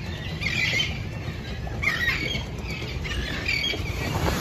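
Birds calling, short high calls repeated several times, over a steady low rumble.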